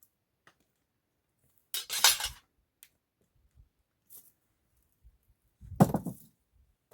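Pots and utensils being handled: a scraping clatter about two seconds in, a few light clicks, and a louder knock near the end.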